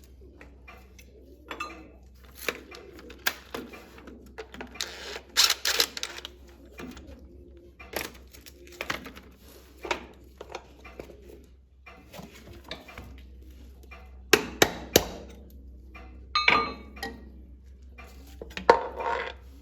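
Metal tools and parts clinking and knocking on a workbench: irregular sharp taps and clinks over a steady low hum, with three loud knocks in quick succession about fourteen seconds in.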